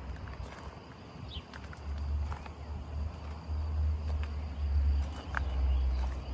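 Outdoor countryside ambience: a low rumble that swells and dips, a thin steady high insect trill, a few brief bird chirps and light scattered clicks of footsteps.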